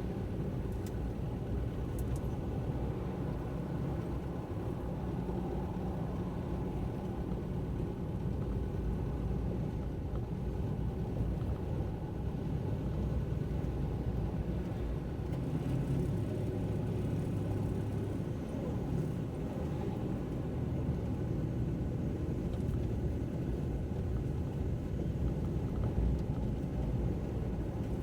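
Car driving along a road: a steady low rumble of engine and tyre noise with no sudden events.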